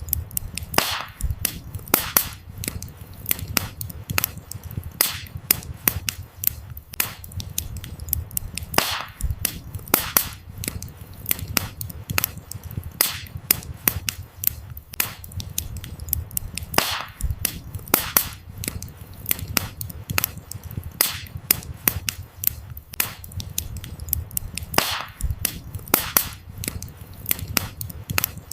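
Burning firewood crackling: frequent irregular sharp pops and snaps, a few much louder than the rest, over a steady low rumble of the flames.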